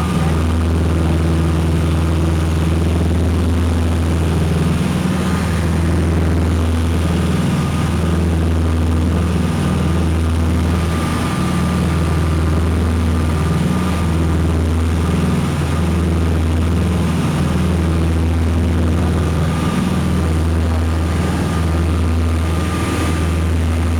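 The twin piston engines and propellers of a Piper Seneca running steadily in flight, a loud low drone that swells and fades in a slow throb every couple of seconds, with a faint steady high whine above it.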